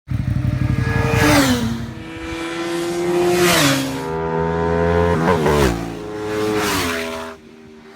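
Motorcycle engine accelerating hard up through the gears, its pitch climbing and dropping at each of several upshifts, fading away near the end.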